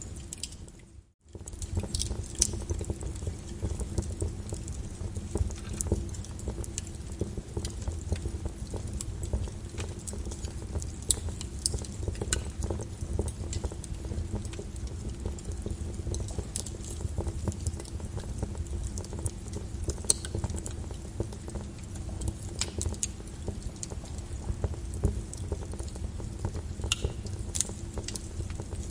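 Lava flow crackling and popping over a steady low rumble. The sound drops out for a moment about a second in.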